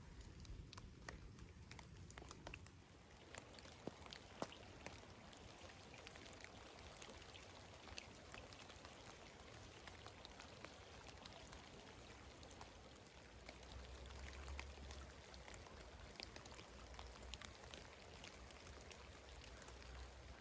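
Faint light spring rain, with scattered raindrops falling in irregular single ticks. A soft low rumble swells briefly about two-thirds of the way through.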